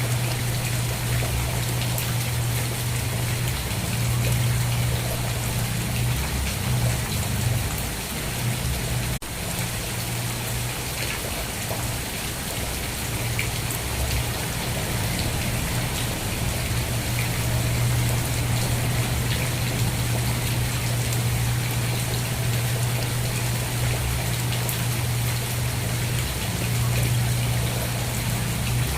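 Steady rain falling: a continuous even hiss with a strong low rumble underneath. A very brief dip in the sound comes just after nine seconds.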